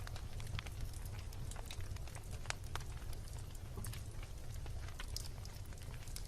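Wood bonfire burning, with irregular sharp crackles and pops scattered throughout over a steady low rumble.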